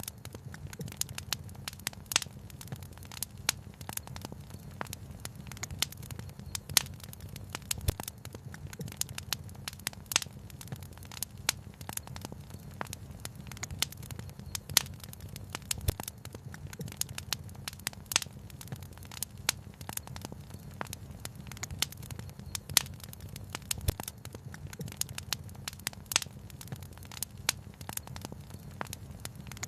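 Wood fire crackling, with frequent irregular pops and snaps over a low steady rumble.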